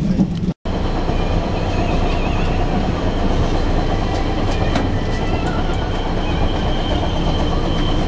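Chemins de Fer de Provence metre-gauge train running along the track, heard from on board: a steady rumble with wheel-on-rail noise. The sound cuts out for a split second just after the start.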